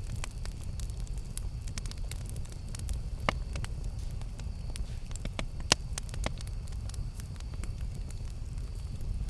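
Campfire burning with a steady low rumble and irregular sharp crackles and pops of burning wood, the loudest pops about three seconds and nearly six seconds in.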